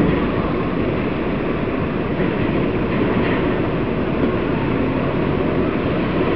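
Small harbour ferry's diesel engine running steadily, a loud even rumble heard aboard.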